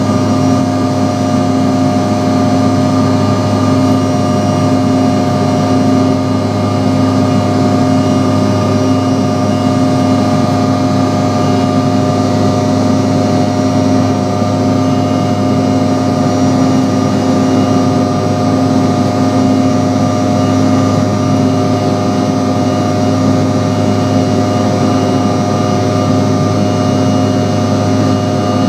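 Steady drone of a Bombardier CRJ700's jet engines, heard at a constant setting with several fixed whining tones and no change in pitch.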